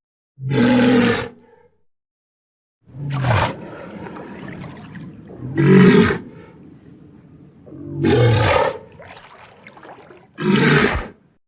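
Walrus calling: five loud calls, each under a second long and about two and a half seconds apart, several dropping in pitch.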